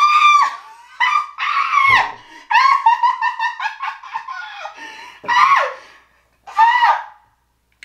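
A person squealing and laughing in a very high-pitched voice, in a string of wavering, bending bursts that thin out into short separate squeals near the end.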